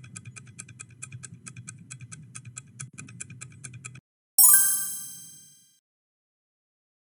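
Countdown-timer sound effect ticking quickly, about four to five ticks a second over a low hum, stopping about four seconds in. Then a single bright bell-like ding that rings out and fades over about a second and a half: the time-up or answer-reveal chime of a timed quiz.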